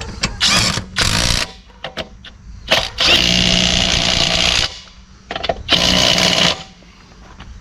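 Impact wrench running in short bursts and one longer burst of about a second and a half, spinning lug nuts onto the wheel studs.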